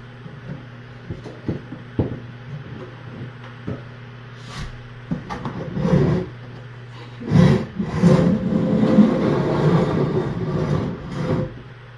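Rustling, scraping and knocking of bedding and objects being handled, with light knocks at first and a louder stretch from about halfway through, over a steady low hum.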